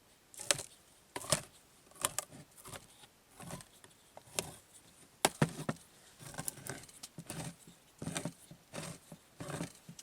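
Irregular clicks, taps and short rustles of small objects being handled, about two a second at uneven spacing.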